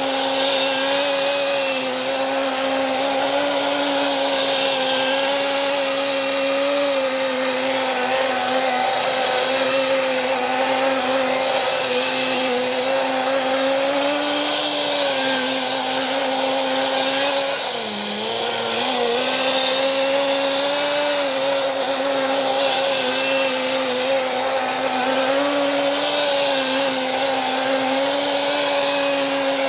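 Small high-revving nitro engine of the Blizzard Nitro running continuously at high speed. Its pitch wavers slightly and dips briefly about eighteen seconds in.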